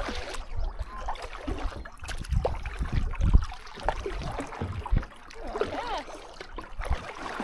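Kayak paddle strokes splashing, with water lapping and gurgling around the kayak.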